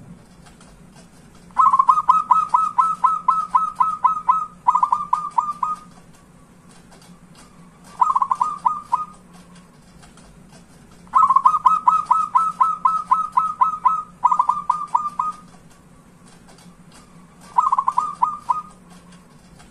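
Zebra dove (perkutut) cooing in fast runs of short, clipped notes. A long run is followed by two shorter ones, then a pause, and the sequence comes round twice.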